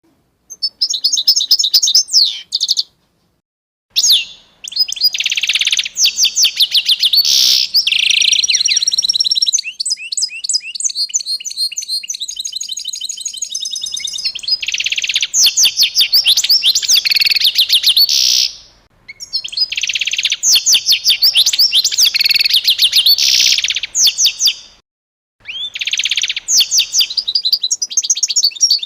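Songbirds singing: fast, high chirps and trills in long stretches, broken by a few short pauses, with a quieter run of rapid repeated notes in the middle.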